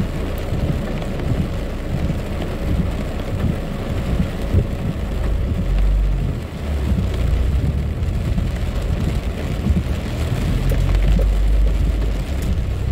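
Very heavy rain pelting a car's roof and windshield, heard from inside the car. A low rumble from the car's engine and its tyres on the wet road builds from about five seconds in as the car moves off.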